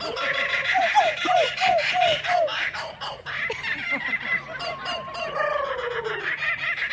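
Kookaburra laughing: a fast chattering call with a run of short falling hoots, then one long falling note near the end.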